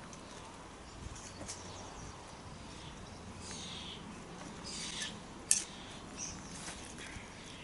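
Garden birds chirping intermittently over faint outdoor background, with one sharp click about five and a half seconds in.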